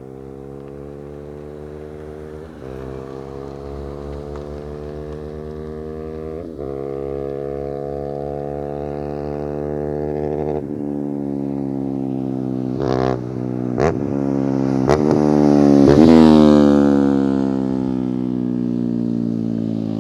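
Single-cylinder engine of a TVS Apache RR 310 on a Yoshimura slip-on exhaust as the bike rides past: the loud exhaust note rises in pitch, with brief breaks every few seconds as it shifts up. It grows louder on the approach, peaks about two-thirds in, and then drops in pitch as the bike goes by.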